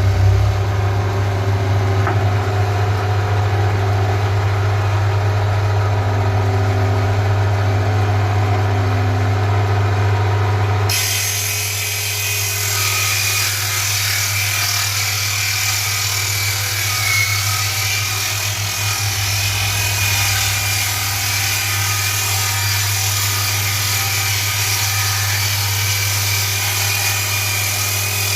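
Electric woodworking power tool running with a steady motor hum. About eleven seconds in, the sound turns to a brighter hiss with a thin high whine, as of the tool cutting or sanding wood.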